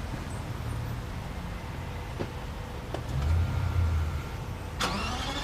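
Low rumble from a car parked before start-up, with a few light clicks. A sharp click comes near the end, followed by a faint rising whine, just ahead of the engine firing.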